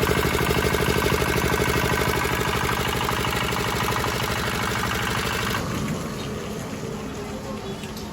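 Chinese single-cylinder diesel engine running with a fast, even chugging beat; about two thirds of the way through the sound drops away, leaving a quieter, less regular background.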